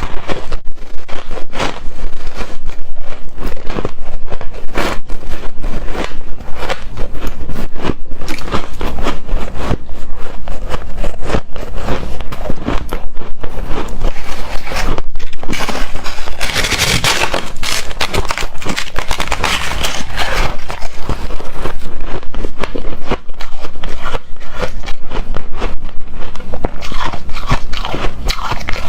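Hard frozen shaved ice being bitten and chewed, a loud, dense run of crunching and scraping.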